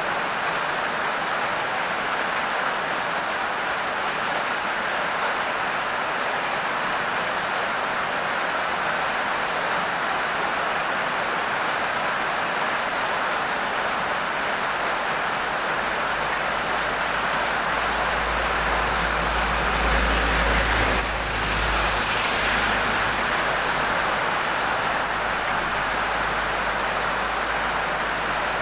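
Heavy rain falling steadily, a dense even hiss. About two thirds of the way through, a low rumble swells for a few seconds and then eases off.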